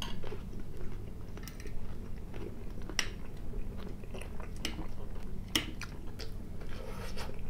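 A person chewing fried potatoes close to the microphone, with wet mouth sounds and scattered sharp clicks as a fork picks food from the plate.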